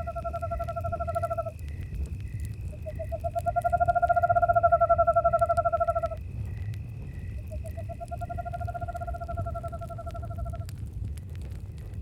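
Owl giving three long, fluttering trilled hoots on one pitch, each about three seconds long, the middle one loudest. Crickets chirp steadily throughout, over the low rumble and faint crackle of a campfire.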